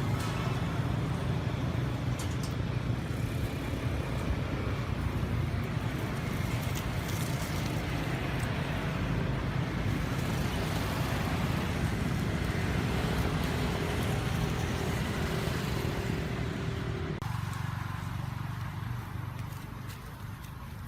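Steady low mechanical hum, like a running engine, under a haze of background noise; it drops off abruptly about seventeen seconds in.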